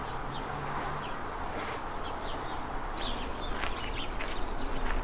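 Small birds chirping and calling again and again over a steady background hiss.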